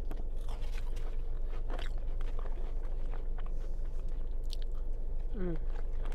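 A person chewing and biting crunchy food, most likely coleslaw, in close, wet mouthfuls with many small crunches over a steady low hum. A short falling "mm" comes near the end.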